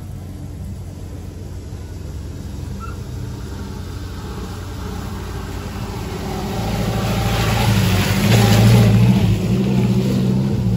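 A vintage trials car's engine revving as it pulls up close past the microphone, growing louder to a peak about eight seconds in, with a hiss of spinning tyres throwing up mud and grass at the loudest part.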